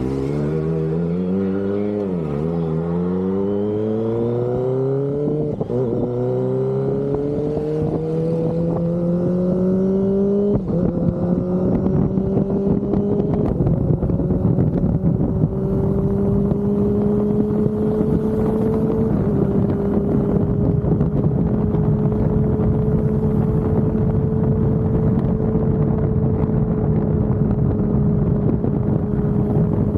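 Kawasaki Ninja ZX-25R's inline-four engine through an Austinracing aftermarket exhaust, pulling up through the gears: the pitch climbs with a small dip at each shift, then holds steady at high revs with wind rush underneath.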